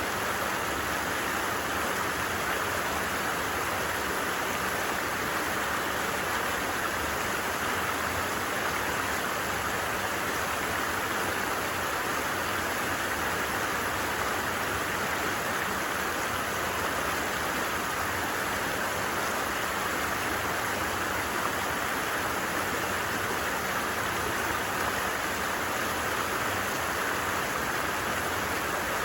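Stream of running water, a steady even rush with no breaks or changes.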